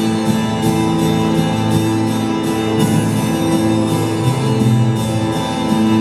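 Instrumental duet playing a melody in held, sustained notes with a steady pulse of note changes.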